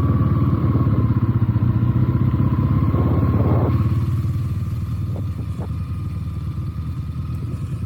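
Benelli TNT 300 parallel-twin motorcycle engine running steadily at low revs, growing quieter after about four seconds, with two light clicks about five seconds in.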